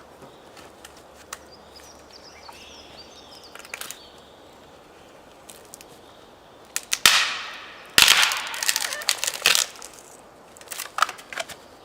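Dry standing deadwood being broken by hand against a tree: a sharp crack about seven seconds in, then a louder crack a second later with splintering crackle for about a second and a half, and a few smaller cracks near the end. The clean, crunching break is the sign of properly dry wood.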